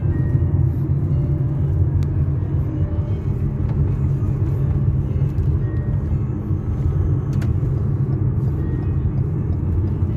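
Steady low road rumble of a car being driven.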